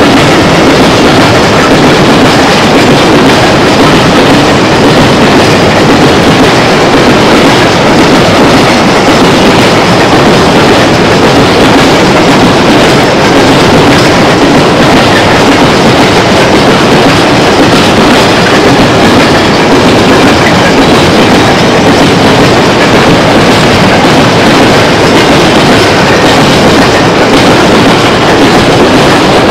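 Freight train of open-top gondola wagons rolling past close by: a loud, steady running noise of steel wheels on the rails.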